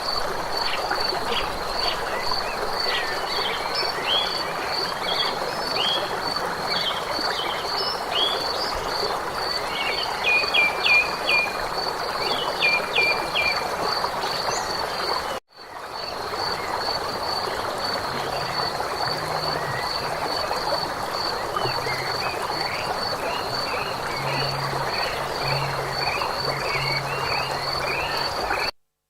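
A chorus of frogs and insects: a steady high pulsing at about three pulses a second, with many short chirping calls over a constant hiss. It breaks off for a moment about halfway through. In the second half, low repeated croaks join in.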